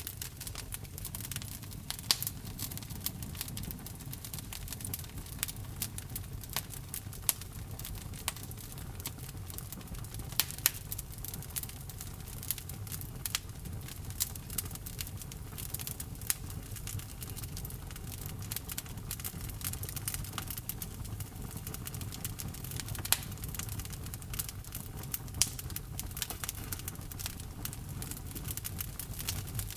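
Logs burning in a fireplace, crackling with frequent sharp pops and snaps over a steady low rumble of flame.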